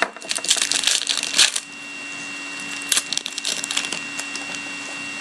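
Wrapper of a hockey card pack being torn open and crinkled in two bouts, the second shorter.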